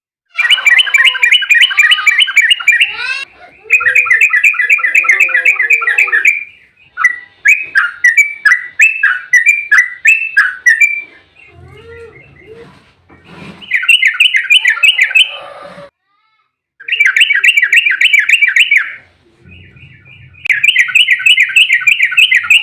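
Yellow-vented bulbul (trucuk) singing a fast, rolling chatter of rapidly repeated notes. It comes in six loud bursts of two to three seconds each, separated by short pauses.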